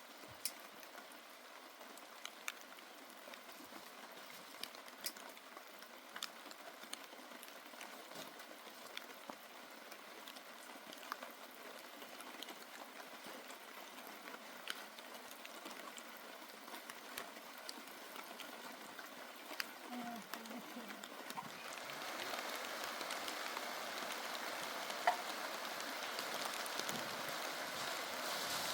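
Steady rain hissing, with scattered drips ticking. It grows heavier about three quarters of the way through.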